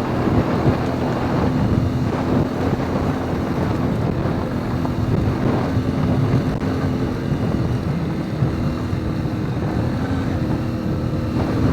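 CFMoto Ibex 450 MT adventure motorcycle's parallel-twin engine running steadily under way on a dirt trail, with wind buffeting the microphone.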